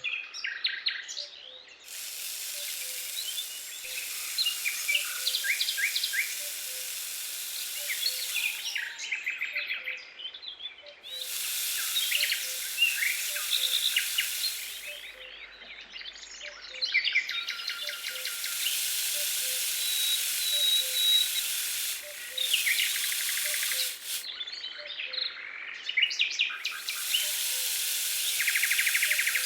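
Small birds chirping and singing in quick short phrases, with a steady high hiss that comes and goes in blocks of several seconds, cutting in and out abruptly.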